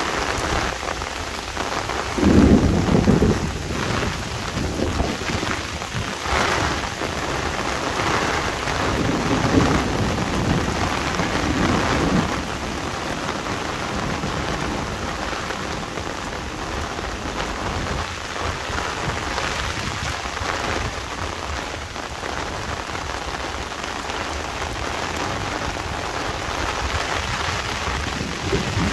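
Heavy monsoon rain falling steadily on an umbrella and the ground, with low thunder rumbling, loudest about two seconds in and again around nine to twelve seconds in.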